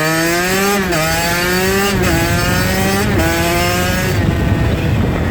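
Dirt bike engine accelerating through the gears: its note climbs and drops back at each upshift, three times in quick succession. About four seconds in the climbing note gives way to a rougher, steadier sound.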